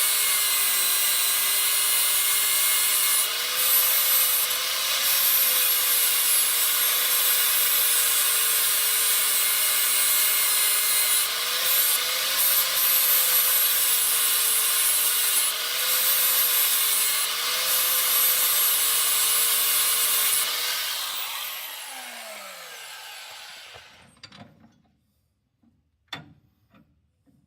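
Electric grinder running and grinding metal off a brake bracket, its motor whine dipping briefly in pitch each time the part is pressed harder into it. About 21 seconds in it is switched off and winds down, followed by a few light knocks.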